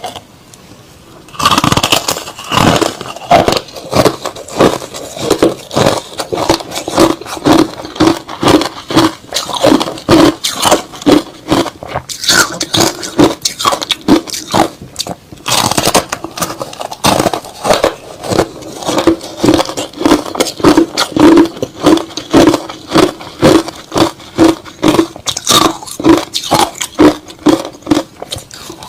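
A person chewing crushed ice and slush close to the microphone. After a quiet second and a half, there is a steady run of crisp crunches, about two bites a second.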